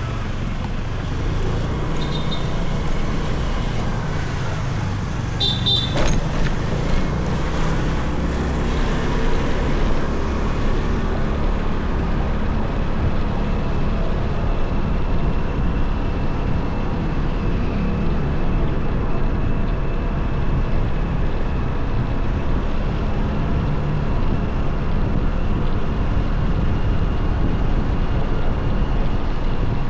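Motorcycle riding through city traffic: a steady engine and road rumble with passing traffic around it. Short high beeps come about 2 and 5 seconds in, a sharp click follows about 6 seconds in, and a faint steady high tone runs through the second half.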